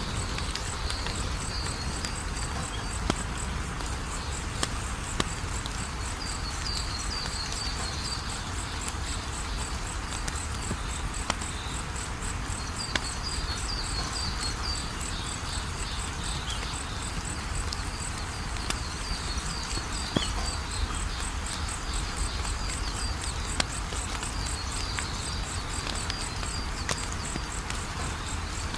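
Wood fire crackling, with scattered sharp pops over a low steady rush, while crickets chirp in a fast, even, high pulse and another high trill comes and goes in short bursts.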